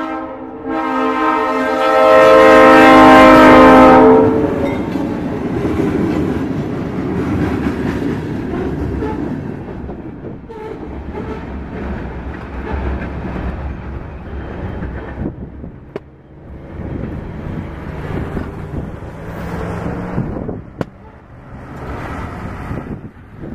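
An ALCO RS-11 diesel locomotive's RS-3L air horn blows a short note and then a long chord that cuts off about four seconds in. After it comes the rumble of the locomotive's engine and the freight cars rolling by, the wheels clacking over rail joints.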